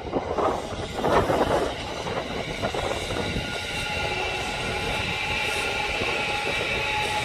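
Kintetsu electric train going by, with two loud rushes in the first second and a half, then a steady high whine that holds to the end.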